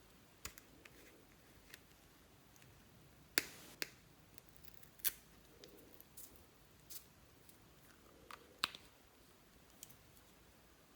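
Slime being pressed and worked by hand, giving irregular sharp clicks and pops of trapped air, the loudest about a third of the way in.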